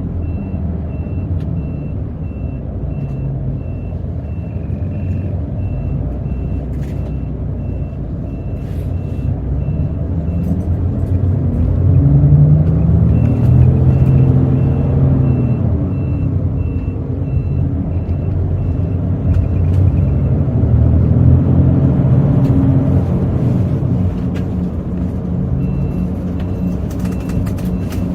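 Hino J08E-VD straight-six diesel of a city bus heard from inside the cabin, pulling and rising in pitch twice, loudest about 12 and 21 seconds in. A faint high beep repeats about twice a second, stopping and starting.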